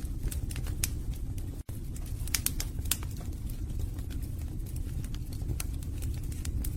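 Wood fire burning in a fireplace: a steady low rumble of flames with frequent irregular sharp crackles and pops from the logs. The sound cuts out for a split second about one and a half seconds in.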